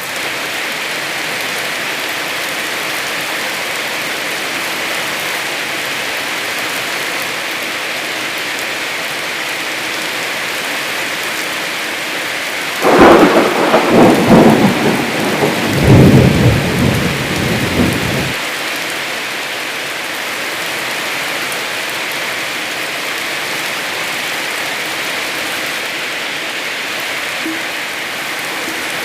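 Heavy rain falling steadily. About halfway through, a sudden thunderclap cracks several times and rumbles for about five seconds before the rain alone continues.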